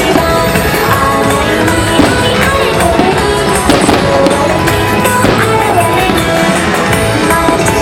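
Loud music playing, with fireworks going off through it: many short sharp bangs and crackles.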